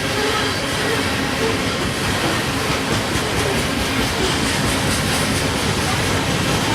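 Loaded coal hopper cars rolling past, with steady wheel-on-rail rumble and clatter.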